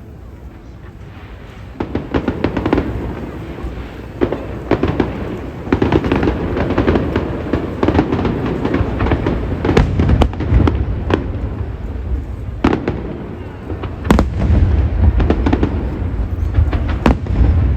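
Aerial fireworks display: a dense run of shell bursts and crackling over a low rumbling boom. It is lighter for the first couple of seconds, then fills in, with single sharp bangs standing out several times.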